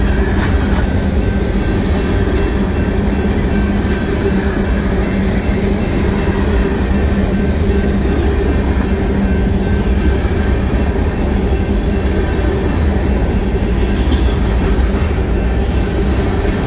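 Covered grain hopper cars of a freight train rolling past at close range: a steady, loud rumble of steel wheels on rail, with some wheel-over-joint clatter.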